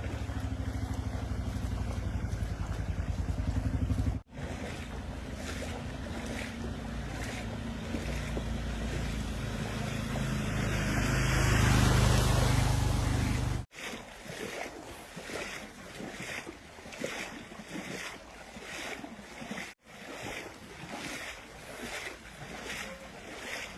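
Floodwater rushing, with wind on the microphone, across several cut-together clips. Through the first half a steady low motor hum runs under the water noise and swells about 11 to 13 seconds in; after a cut the hum is gone, leaving the water noise with rhythmic surges about twice a second.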